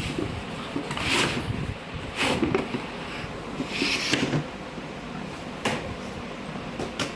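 A cardboard box being handled and opened, with several short scraping and rustling bursts of cardboard and packing.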